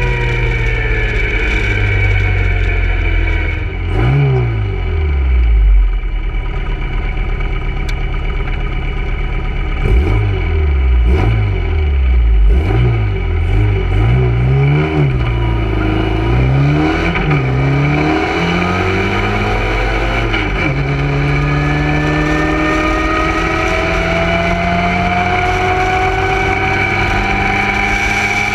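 Austin-Healey Sprite race car's four-cylinder engine at full effort, heard from the open cockpit. The revs rise and drop sharply about four seconds in and again several times in quick succession through the middle, then climb steadily near the end.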